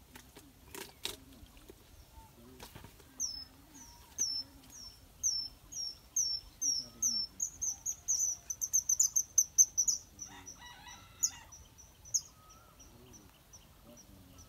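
A bird singing a series of short, high, down-slurred notes, about two a second, that speed up into a fast trill near the middle and then slow again to spaced notes. A brief lower call comes in around ten seconds in.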